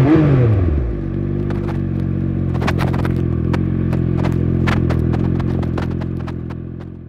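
Triumph Speed Triple 1200RS inline-three engine coming down off revs in the first second and settling into a steady idle, with scattered sharp clicks over it. The sound fades out near the end.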